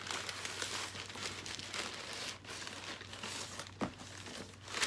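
Packaging crinkling and rustling as a handbag is unwrapped and lifted out of its shipping box, with one brief sharp tap near the end.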